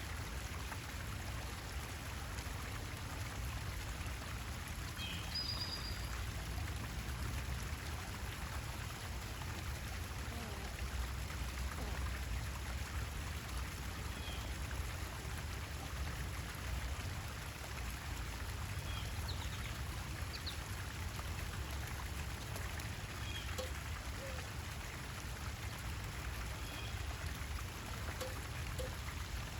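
Steady trickling, running water, with a few short high bird chirps now and then.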